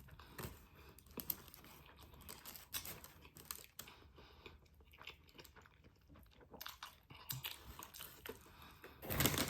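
Close-miked chewing of food, with irregular small crunches and a louder burst of crunching near the end.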